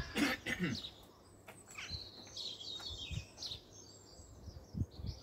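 Small songbirds chirping and twittering in short high phrases and quick pitch glides, with a few faint low knocks.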